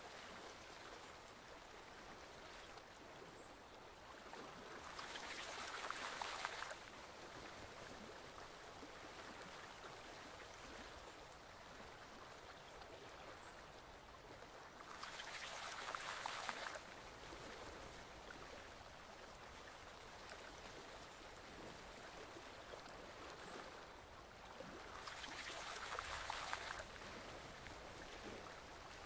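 Forest stream flowing, a steady soft rush of water. Three times it swells louder at even intervals of about ten seconds, each swell building for a second or two and then dropping off suddenly.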